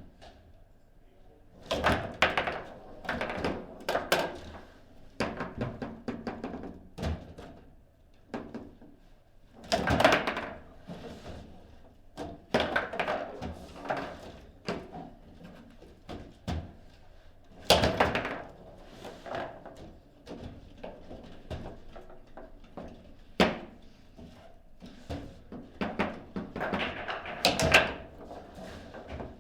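Foosball table play: the ball is struck by the rod figures and knocked against the table walls, making sharp thunks and clacks. The hits come in bursts of rapid strikes, with quieter gaps between rallies.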